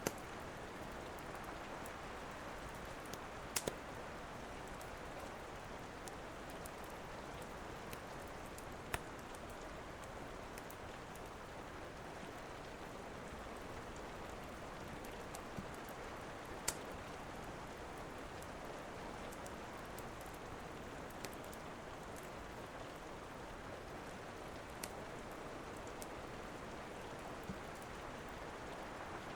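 Steady rain falling, with a dozen or so sharp, isolated pops and crackles from a wood fire in a fireplace scattered through it.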